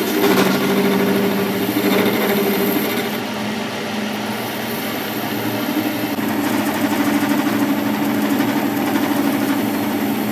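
A workshop machine's motor running steadily with a continuous hum, its tone changing partway through.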